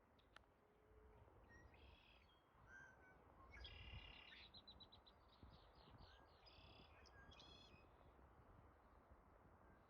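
Faint songbird calls: several short bursts of high chirping notes, with a quick run of repeated notes mid-way, over a low background rumble.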